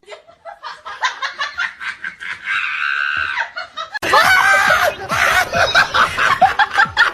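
People laughing in quick rhythmic bursts, growing louder and more excited about four seconds in.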